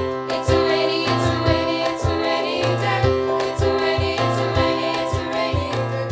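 Live band playing a song, with a bass line, a steady drum beat about two hits a second, and sung vocals.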